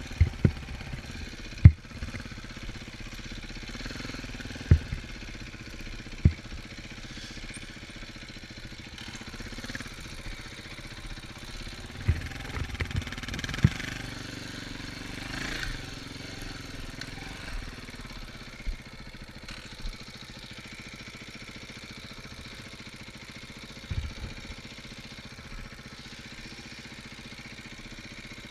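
Dirt bike engine running steadily, with several sharp thumps on the microphone.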